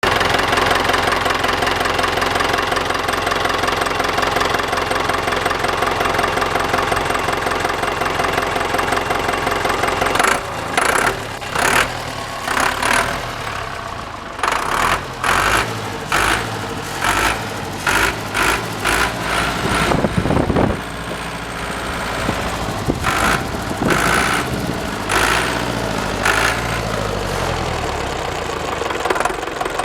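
Deutz F4L912 air-cooled four-cylinder diesel engine running steadily. From about ten seconds in it is revved in a series of short bursts.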